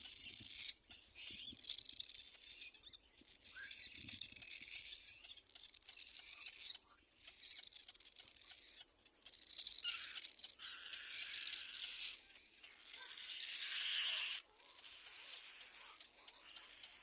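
Little black cormorant chick giving repeated hoarse, hissing cries. They grow louder to a peak about fourteen seconds in, then break off suddenly.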